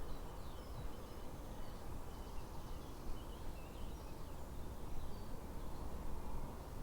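Outdoor ambience: a steady low rumbling noise, with faint bird chirps scattered throughout.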